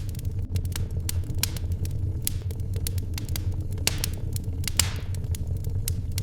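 Wood fire crackling in a fireplace: irregular sharp pops and snaps over a steady low rumble, with one louder pop and a brief hiss about five seconds in.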